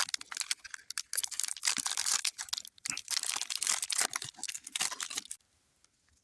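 Foil Pokémon booster pack wrapper crinkling and tearing as it is opened, with a dense run of crackles that stops abruptly about five seconds in.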